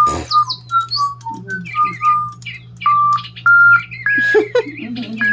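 DigiBird electronic toy birds whistling a tune in pure, beeping notes, with warbling chirps above. Short hopping notes give way about halfway through to longer held notes.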